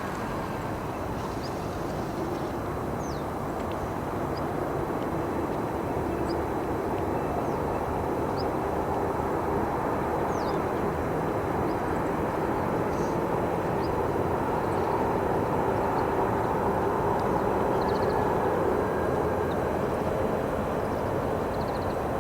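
Steady distant engine drone that slowly swells and eases slightly near the end, with faint, short, high chirps of small birds scattered through it.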